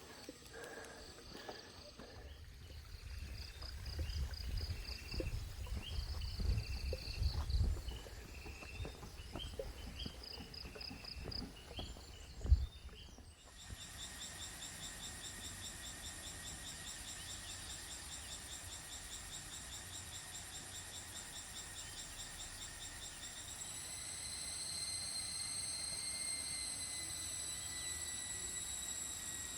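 Insects trilling and buzzing in a steady high chorus. In the first half there are low rumbles and bumps from handling or walking, with a sharp knock about halfway in. Then the sound changes abruptly to a denser, finely pulsed high insect drone that grows slightly louder near the end.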